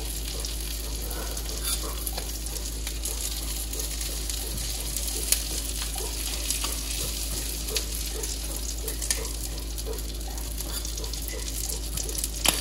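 Breaded fish fillets frying in butter in a hot cast-iron skillet: a steady sizzle full of small crackles, with a couple of sharp ticks, one about five seconds in and one near the end.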